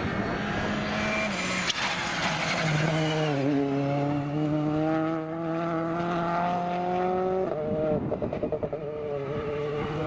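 Rally car engine accelerating hard, its pitch climbing steadily through a gear, then dropping sharply at an upshift about seven and a half seconds in before it climbs again.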